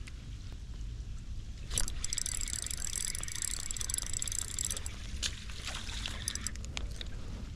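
Daiwa Luvious spinning reel being cranked for about three seconds, a high whirring that starts and stops abruptly, followed by a few light clicks, over a low wind rumble on the camera microphone.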